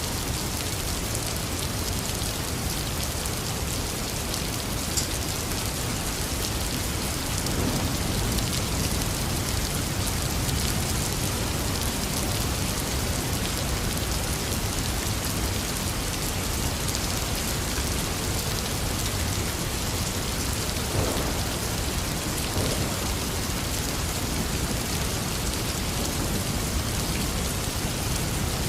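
Heavy rain falling steadily, a dense even hiss of drops, with a few single louder drips standing out now and then.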